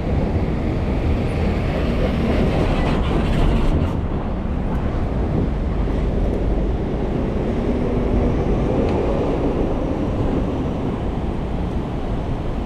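Steady, loud low rumble of city traffic.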